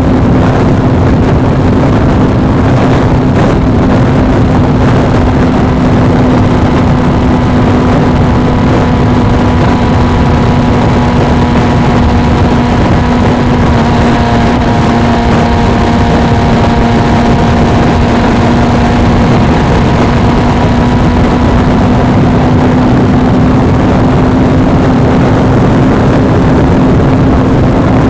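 Suzuki V-Strom 250 motorcycle's parallel-twin engine running at a steady cruise, with a constant drone under loud, rushing wind noise on the camera's microphone.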